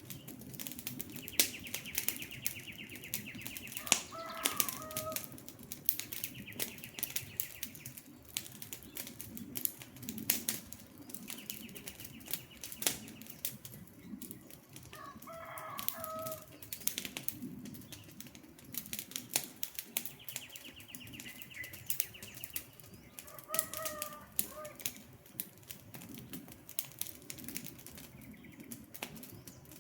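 Wood fire crackling and popping steadily over the low rumble of the flames. A bird calls repeatedly over it: a high rapid trill several times, and three times a short two-note call lower in pitch.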